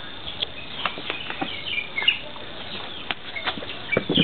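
Small birds chirping and twittering in short, scattered calls. A girl's singing voice comes in near the end.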